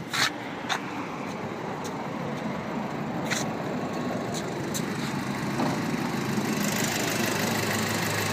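2008 Audi TT's 2.0-litre turbocharged inline-four idling steadily, growing louder as it is approached with the hood open. A few sharp clicks and knocks come in the first few seconds.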